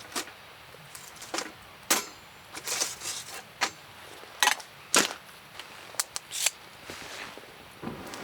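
Wood campfire crackling: about a dozen irregular sharp pops and snaps over a low hiss.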